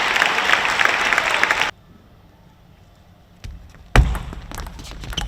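Arena crowd cheering that cuts off suddenly under two seconds in. After a quiet gap come table tennis clicks: a light knock, then a loud sharp knock about four seconds in, followed by more knocks over rising crowd noise.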